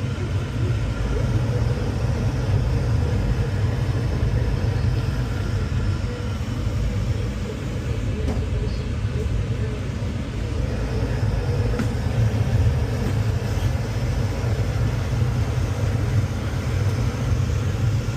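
Boiler-room machinery running: a steady low rumble, with a faint click or tick here and there.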